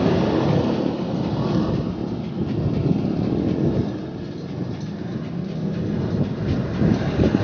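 Wind buffeting the microphone of a moving bicycle, a low rumble that rises and falls, mixed with road traffic noise.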